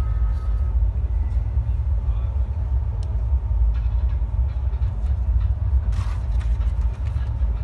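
Steady low rumble of a moving Rajdhani Express passenger train heard from inside the coach, with a few faint clicks and rattles and a brief louder rustle about six seconds in.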